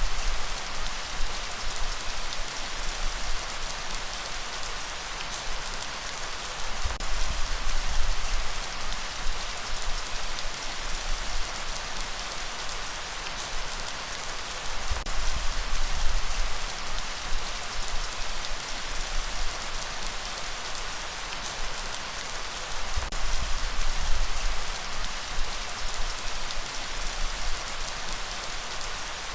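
Steady rain falling, a dense even hiss with scattered drops ticking on a surface, and a low rumble that swells about every eight seconds.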